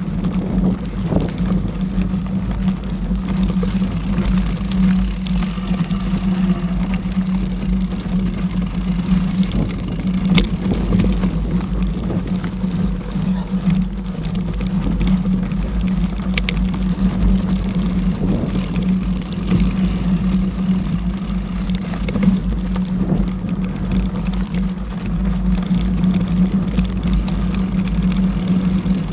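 Steady running noise of a mountain bike ride: a constant hum with heavy low rumble and scattered light clicks and rattles.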